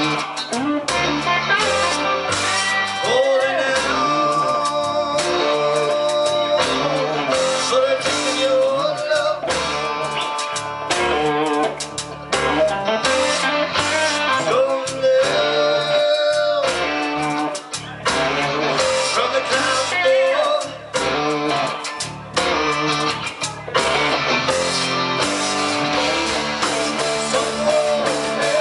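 Blues-rock band playing, led by electric guitar, with held and bending pitched notes.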